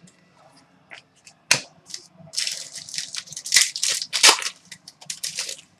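A trading-card pack's foil wrapper being handled and opened: a single sharp snap, then about three seconds of crinkling and rustling.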